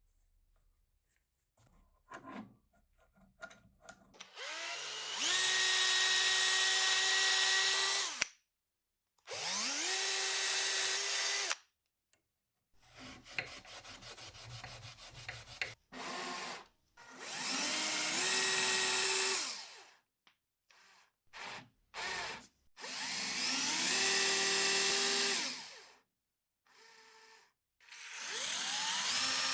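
A small electric power tool, drill-like, spinning up to a steady whine and running a few seconds at a time before stopping, about five times. Lighter clicks and rubbing come between the runs.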